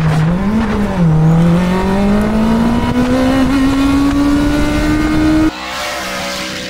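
Race car engine under acceleration: its note lifts and dips about a second in, then climbs steadily as it pulls. About five and a half seconds in the sound cuts abruptly to a quieter engine note.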